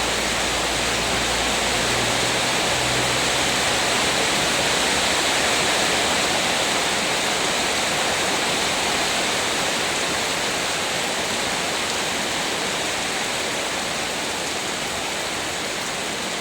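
Heavy rain pouring down: a dense, steady hiss of rainfall that keeps an even level throughout.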